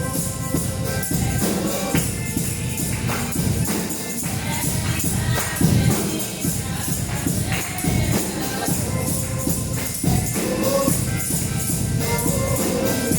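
Gospel praise singing by a church choir and congregation, with a tambourine shaken on a steady beat.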